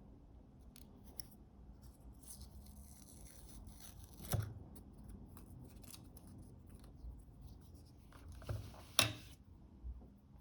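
Small hand tools handling camera parts: faint rubbing and scattered light clicks, with two sharper clicks about four seconds and nine seconds in.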